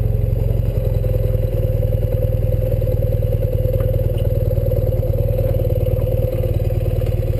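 1984 BMW R100RS's air-cooled flat-twin engine running steadily, with a fast, even beat.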